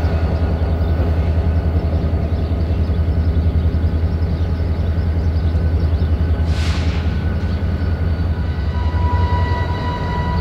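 Freight train rolling by: a loud, steady, heavy rumble with a quick pulsing beat. A brief hiss comes about two-thirds of the way through, and a thin high steady tone joins near the end.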